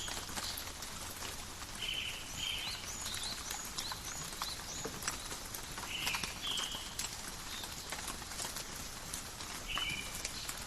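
Steady rain falling in a forest, with drops pattering and dripping. Birds call over it again and again: short arched chirps and short flat buzzy notes, a few every couple of seconds.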